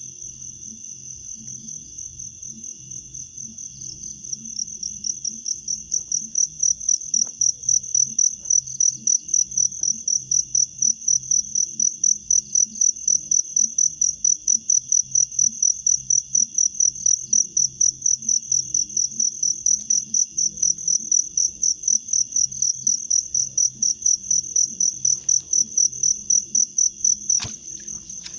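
An insect chirping: a high, steady, pulsing trill of about three pulses a second that grows louder about five seconds in.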